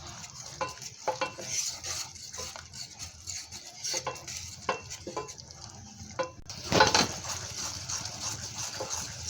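A spoon stirring and scraping in an Amway Queen pan of simmering sugar syrup, with irregular small clinks and a faint hiss from the syrup on the heat. There is one louder scrape about seven seconds in.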